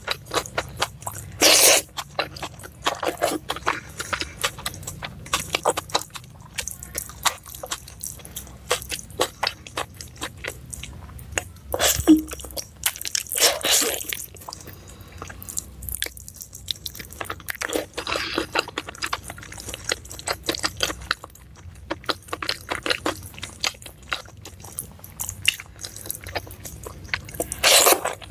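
Close-miked eating: chewing and biting on beef tendon (tunjang) and rice, with many small wet mouth clicks and several louder bites scattered through.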